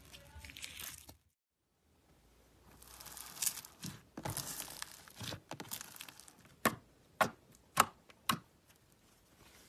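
Slime being worked by hand: fluffy slime crackling as it is stretched and pulled apart, then, after a brief silence, bead-filled slime crunching and crackling as it is squished. Near the end come four sharp pops about half a second apart as a blob of slime is pressed down.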